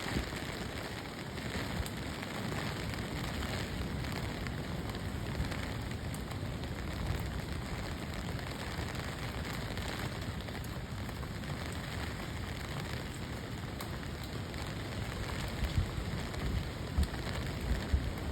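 Heavy storm rain pouring steadily, with strong wind buffeting the microphone in low rumbles that grow gustier near the end.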